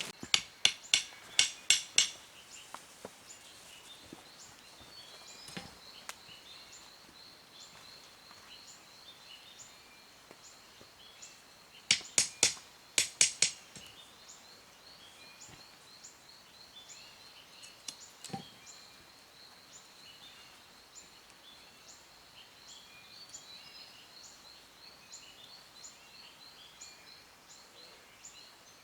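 Two quick bursts of sharp knocks, five or six strikes each, from a hand tool striking: one at the start and one about twelve seconds in, with a single knock near eighteen seconds. A steady high-pitched drone with faint regular chirps runs underneath.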